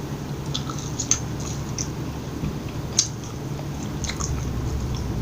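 Close-miked chewing of French fries dipped in soft-serve sundae ice cream, with small sharp mouth clicks now and then over a faint steady room hum.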